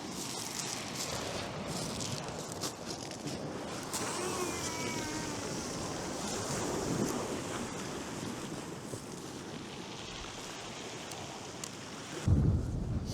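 Surf washing on the beach under a steady strong wind. Near the end a sudden gust buffets the microphone with a loud low rumble.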